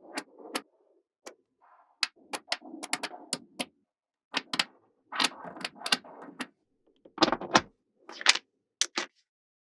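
Small magnetic balls clicking and snapping together in irregular clusters of sharp clicks, with short rattling between them as they are handled and pressed into place.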